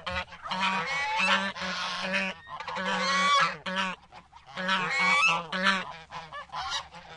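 A flock of birds calling, many pitched calls overlapping in noisy bursts, with a short lull about four seconds in.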